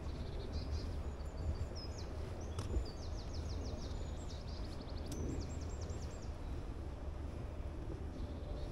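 A songbird singing fast runs of high, rapidly repeated notes, about ten to the second, from about half a second in until about six seconds in, over a steady low rumble.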